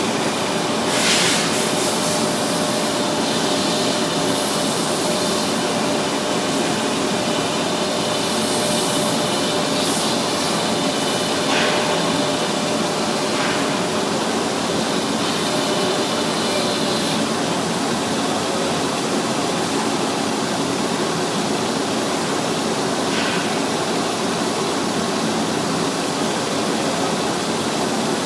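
Propeller sanding machine running, a loud steady abrasive hiss with a faint steady tone that drops out about two-thirds of the way through. A few brief sharper scrapes stand out now and then.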